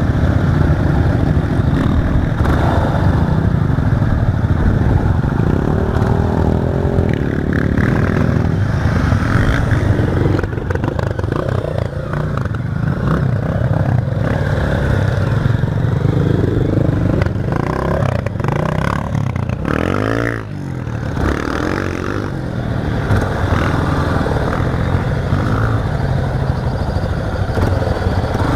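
Single-cylinder trail motorcycle engine running under way off-road, its note changing with the throttle, with clattering and scraping from the bike over rough ground. The engine note drops briefly about two-thirds of the way through, then climbs again.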